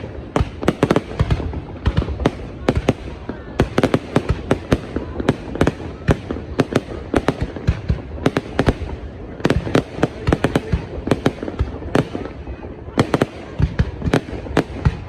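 New Year's Eve fireworks display: a dense, irregular barrage of bangs and crackling, several reports a second without a break.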